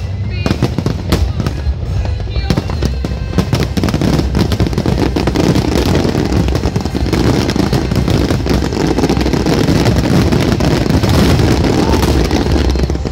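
Fireworks finale barrage: many sharp bangs at first, building into a dense, continuous rush of overlapping bursts that swells through the middle and cuts off at the very end.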